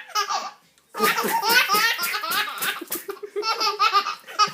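Baby laughing in belly laughs: a short burst, a brief pause, then a long run of laughter and another shorter run near the end.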